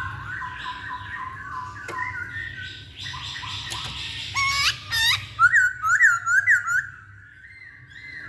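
Masked laughingthrush (poksay Hongkong) singing: a run of quick warbled notes, then two sharply rising whistles about four seconds in, followed by five loud looping whistled notes.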